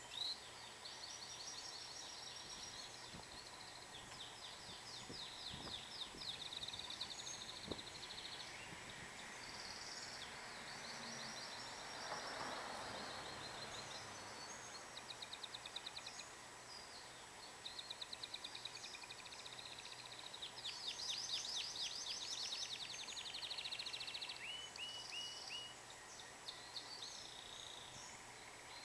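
Domestic canary singing a long, continuous song of high, rapid trills, one fast rolled phrase after another with brief breaks between them.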